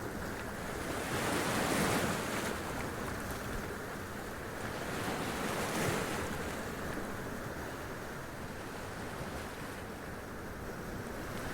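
Sea waves splashing and washing up over rocks: a steady rush of surf that swells about two seconds in and again around six seconds.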